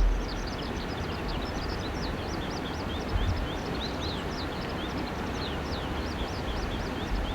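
Small birds singing in a rapid run of high chirps over a steady rushing noise, with low buffets of wind on the microphone at the start, about three seconds in and near the end.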